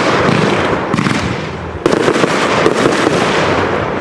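Consumer fireworks going off in a dense, rapid run of cracks and bangs, with a fresh loud volley starting just under two seconds in.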